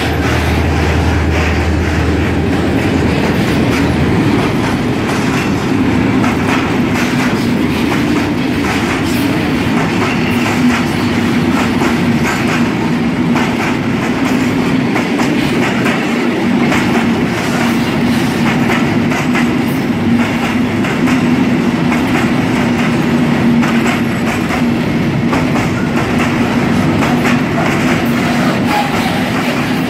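Freight train of tank wagons rolling past at close range: wheels clattering over rail joints in a steady stream of clicks, with a steady drone underneath. A low engine hum from the passing class 661 diesel locomotive dies away in the first few seconds.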